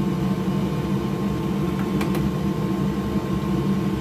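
Steady mechanical hum of a fan or motor running, with a couple of faint small clicks about two seconds in.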